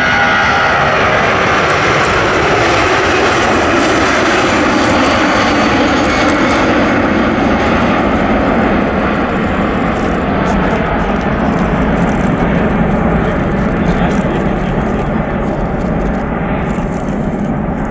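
Four-engine Airbus A340 jet engines going past loud, their high hiss strongest at the start and the sound sinking lower and slowly fading as the aircraft moves away.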